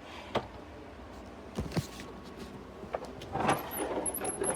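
Clicks and knocks of a plastic vacuum cleaner and its parts being handled: a couple of separate knocks, then a busier stretch of rattling and clicking near the end.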